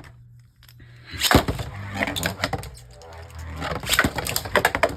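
Two Beyblade Burst spinning tops: a sharp hard crack about a second in as they hit the plastic stadium, then rapid clicking and clattering as they spin and strike each other.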